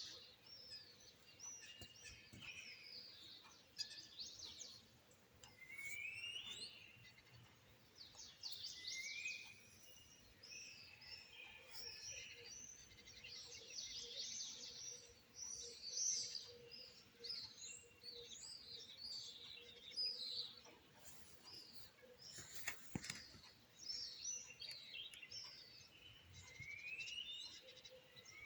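Several small songbirds chirping and singing at once: a dense run of short, high chirps and trills, with a rising whistled note repeated every few seconds. A faint steady hum runs underneath.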